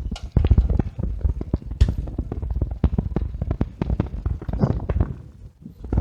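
A bicycle rattling and knocking as it rolls over an uneven surface: a quick, irregular run of sharp knocks over a low rumble, easing off a little before the end.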